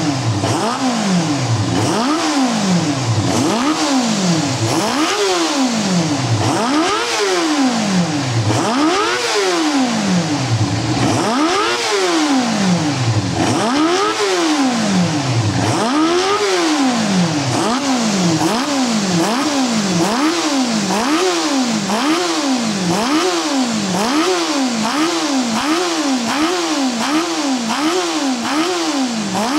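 Feather 250 motorcycle engine running and being revved up and down over and over. In the first half each rev rises and falls over about two seconds; in the second half the revs come quicker and shallower, about one a second.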